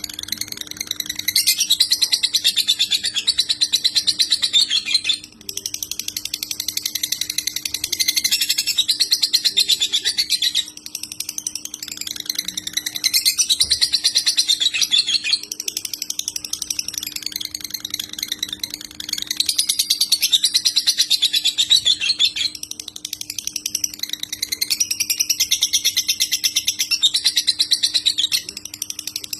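A lovebird singing its long, fast chattering song (the nonstop 'konslet' style of ngekek), in about five phrases of several seconds each with short breaks between them. A faint steady low hum runs underneath.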